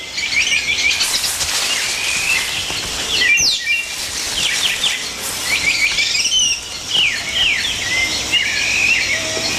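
Rainforest birds calling: many short, quick chirps and falling whistles in overlapping bursts, over a steady high hiss of forest background.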